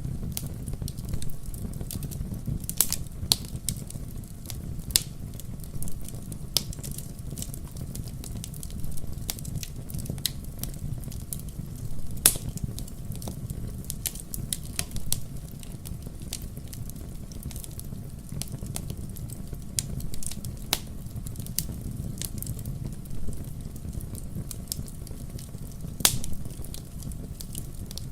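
Fire crackling in a fireplace: a steady low rumble of flames with scattered sharp pops and snaps, the loudest about twelve seconds in and again near the end.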